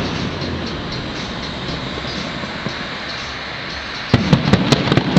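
Fireworks display: a steady background hiss, then, about four seconds in, a rapid cluster of firework bangs and crackles lasting about a second.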